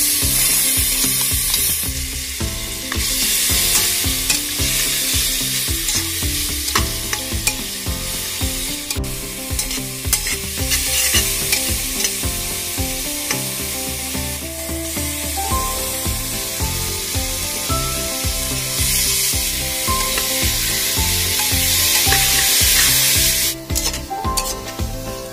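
Spice paste and onions sizzling in hot fat in a pot while being stirred and scraped with a metal spatula. The sizzle swells loudest near the start, in the middle and again shortly before the end.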